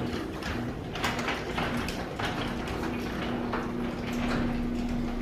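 Overhead garage door running under its electric opener: a steady motor hum with the rattle and clatter of the door panels and rollers moving along the track.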